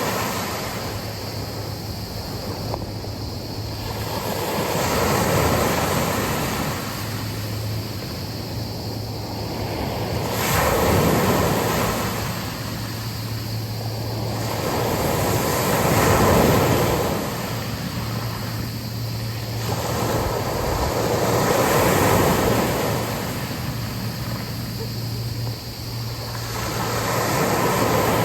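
Sea waves breaking and washing up a beach, the surf swelling and falling back in slow surges about every five to six seconds.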